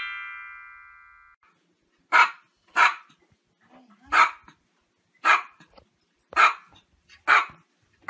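A chime's ringing notes fade out over the first second or so, then a small dog barks six times in short, sharp barks, about one a second.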